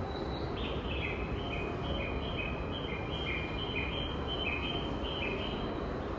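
A JR station platform chime plays a quick run of high-pitched electronic notes, typical of a departure melody, over steady platform rumble. The notes stop near the end.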